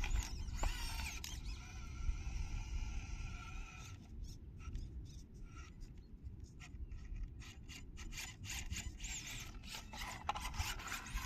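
Electric RC truck motor whining at a distance, rising and falling in pitch as it speeds up and slows, with scattered clicks and crunches from the track. A low rumble of wind on the microphone runs underneath.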